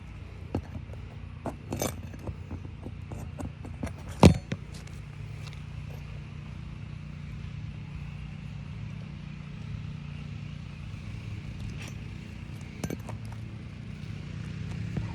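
Hand tools working asphalt roof shingles: scattered clicks, scrapes and knocks, with one sharp loud knock about four seconds in, over a steady low hum.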